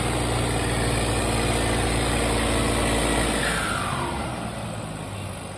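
Tractor diesel engine running hard under load while trying to pull a stuck trolley free. About three and a half seconds in it eases off, its pitch falls and the sound dies down.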